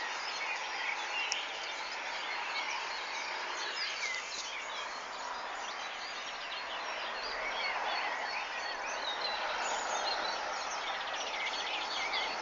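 Many small birds chirping and twittering at once over a steady background hiss, a dawn chorus outdoors.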